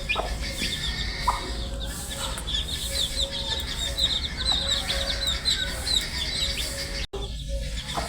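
Many baby chicks peeping together: a dense, continuous stream of short, high, falling chirps over a low steady hum, broken by a sudden brief dropout about seven seconds in.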